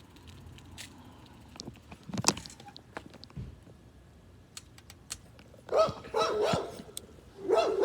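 A dog barking in short bursts, about six seconds in and again near the end, over a sharp knock a couple of seconds in.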